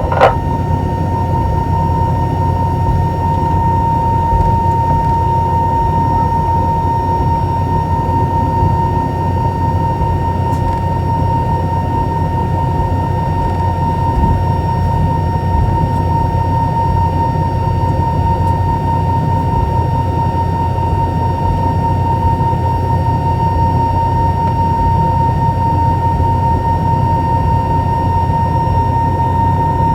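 Steady cabin noise inside an Airbus A320 with its CFM56 engines running: a low rumble with a steady high whine on top, holding level without rising or falling.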